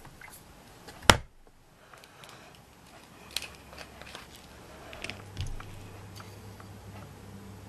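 Scattered small clicks and taps of hands working with beads and glue, with one sharp click about a second in and another a little past three seconds. A faint steady low hum comes in about five seconds in.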